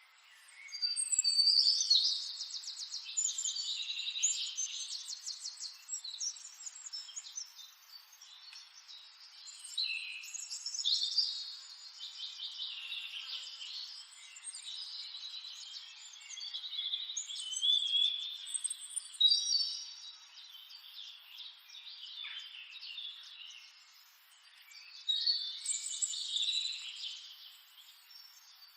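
Several songbirds singing and chirping over one another in high-pitched bouts of rapid notes, four bouts with quieter gaps between them.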